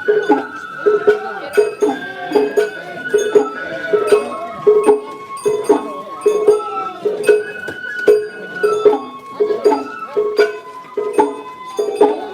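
Sawara-bayashi festival music: a bamboo flute holds and steps between high notes over a steady beat of drum and metal gong strokes, about two a second.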